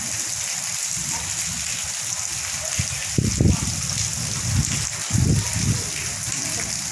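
Heavy rain pouring down in a steady hiss. Two bursts of low rumble come about three and five seconds in.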